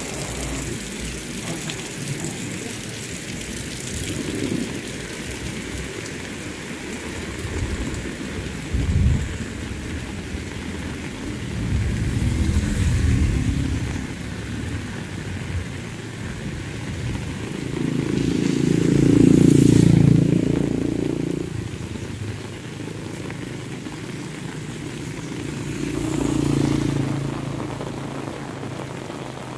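Heavy rain falling steadily on a road and plants, with motor vehicles passing on the wet road, most likely motorcycles. The loudest passes close about two-thirds of the way through, with a smaller pass a little before halfway and another near the end.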